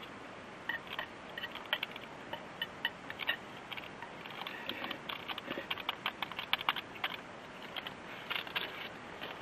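Camp cooking sounds: many irregular light clicks and ticks over a steady faint hiss, busiest around the middle.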